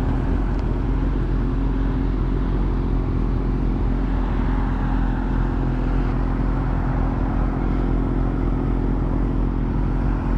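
Suzuki GSX-R sport bike's inline-four engine running at a steady cruise, with wind rush over the rider's microphone.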